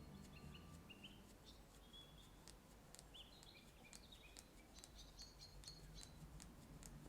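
Faint small birds chirping, with scattered short calls and a few light clicks.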